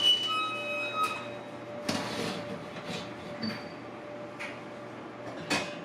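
Kitchen handling sounds around a preheated oven: scattered knocks and clunks of cookware and an oven door, over a faint steady hum, with a few short high whistle-like tones in the first second.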